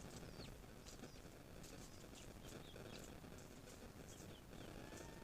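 Small birds chirping faintly, a scatter of short, high chirps and quick falling notes, several a second, over a low background hiss.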